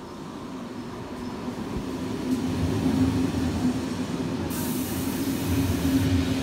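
Locomotive-hauled passenger train pulling in alongside the platform, its running hum and wheel rumble growing steadily louder as the coaches pass close by. A steady hiss joins in about four and a half seconds in.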